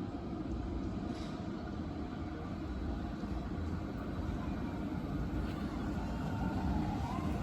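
Low, steady rumble of a Rhaetian Railway train running, growing slightly louder near the end.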